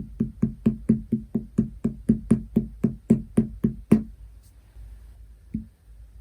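Clear slime being pressed and poked by hand, giving a fast, even run of sharp pops, about four to five a second. The run stops about four seconds in, and a single pop follows near the end.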